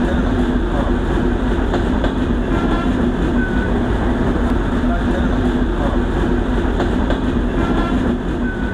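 Sundarban Express passenger train running as it pulls away from a station, heard at an open carriage door: a steady loud rumble of the carriages and wheels on the track, with a constant low hum.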